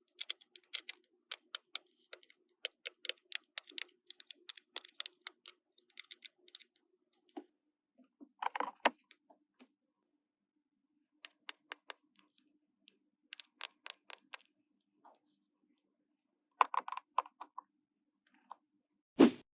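Rapid light clicks and taps of small plastic toy pieces being handled, in quick runs with pauses, and a few louder knocks or rustles as parts are set down.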